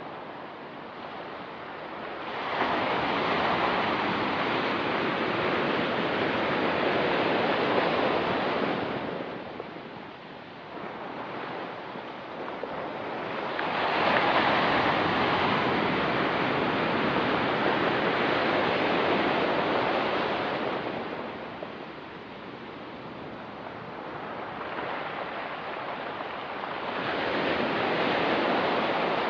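Ocean surf on a rocky beach: waves rolling in and washing back, the noise swelling and ebbing about every twelve seconds, three surges in all.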